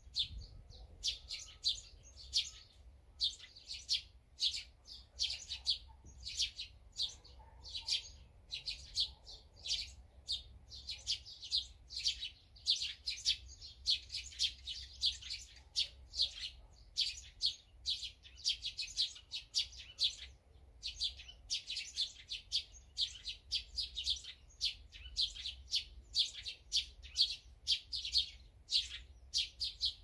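Small songbirds chirping busily: many short, high chirps, several a second, overlapping without a break.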